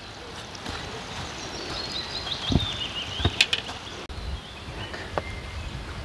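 Outdoor background with a bird singing a quick, descending run of short notes about two seconds in. Two sharp knocks come around the middle.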